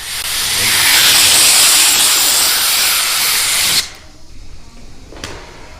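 A compressed-air tool giving one continuous hiss of air for nearly four seconds, which starts and cuts off suddenly, followed by a single short click.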